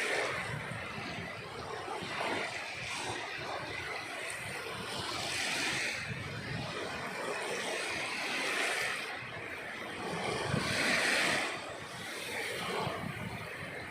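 Sea waves breaking and washing onto the shore, each wave a surge of hiss, about five in a row, every two to three seconds.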